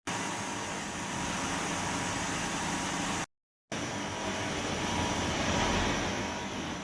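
Kuraki KBT-13 CNC horizontal boring machine running: a steady mechanical hum and hiss with faint steady tones, broken by a half-second gap of silence about three seconds in.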